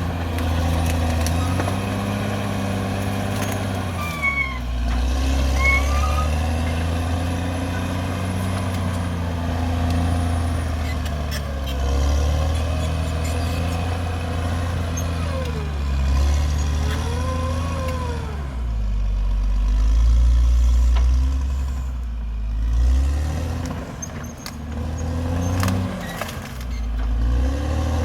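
Caterpillar D6R XL bulldozer's diesel engine running under load, its pitch rising and falling repeatedly as the machine works, with a few short squeals from the running gear.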